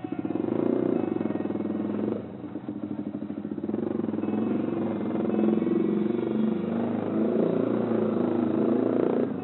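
Yamaha R15 V3's single-cylinder engine running as the motorcycle rides along slowly. The engine note eases off briefly about two seconds in, then picks up again and holds steady.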